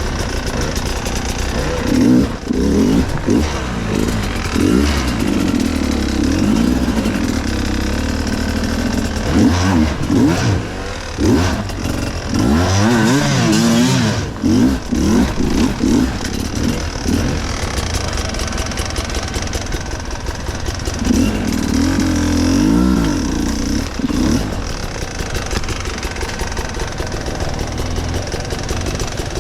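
Enduro motorcycle engine revving in repeated spells, with steadier, lower running between them.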